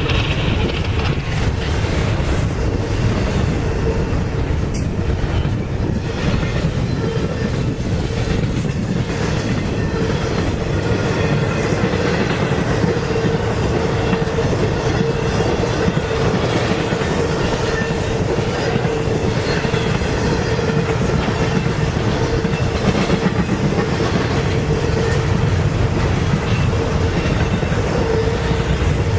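CSX intermodal freight train rolling past, its wheels clicking over the rail joints in a steady run, with a steady ringing tone from the wheels on the rails.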